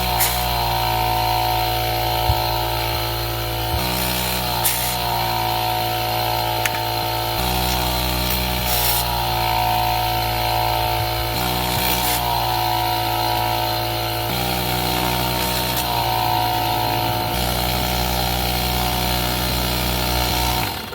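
Air compressor running steadily, its motor and pump giving a loud, even drone with a hiss over it. It cuts off suddenly near the end.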